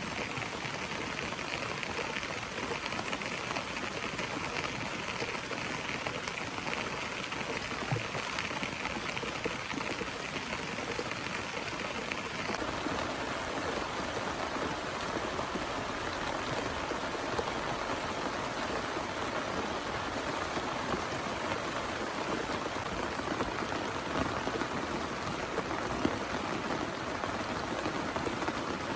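Heavy rain falling steadily. About twelve seconds in, the sound shifts: the higher hiss drops away and a fuller, lower rush takes over.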